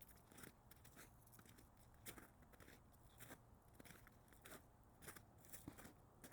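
Faint footsteps crunching in snow, an uneven run of short crunches about one or two a second.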